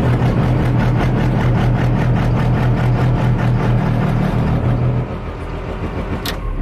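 Diesel pickup truck engine running steadily, heard from inside the cab. The drone drops off about five seconds in.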